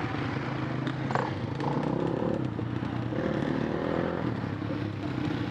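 Dirt bike engine idling steadily, with a brief click about a second in.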